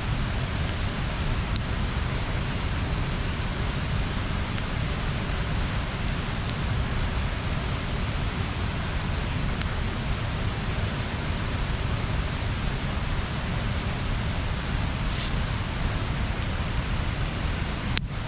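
Bonfire burning: a steady rushing noise with a few sharp crackles and pops, and a short hiss about fifteen seconds in.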